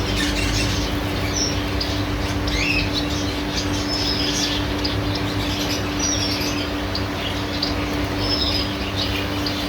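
Small cage birds (finches) giving short, high chirps and whistle calls at scattered intervals over a steady low hum and background noise.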